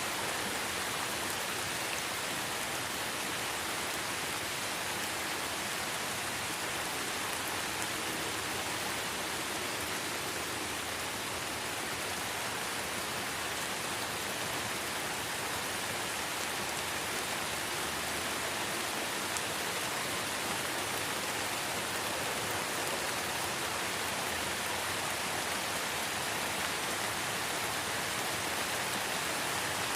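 Steady light rain falling in a forest: an even hiss with no distinct drops standing out.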